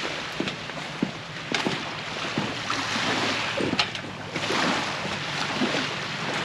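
Wind buffeting the microphone in gusts, with scattered short crunches and clicks.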